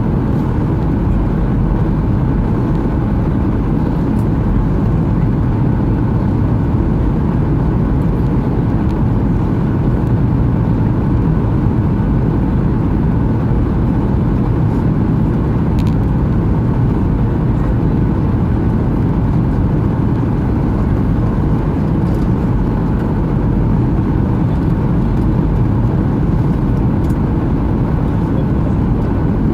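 Steady cabin noise inside a Boeing 737-800 in flight: a constant low rumble of airflow and its CFM56 engines, with a faint steady hum over it and no distinct events.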